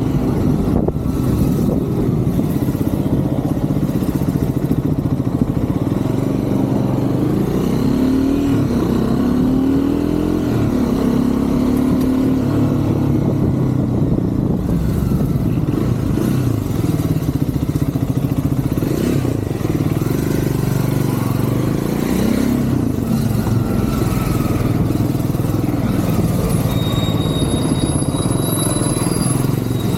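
Triumph Scrambler 400 X's single-cylinder engine running under way, its pitch rising and falling twice as the rider accelerates and eases off, over a steady rumble of road noise.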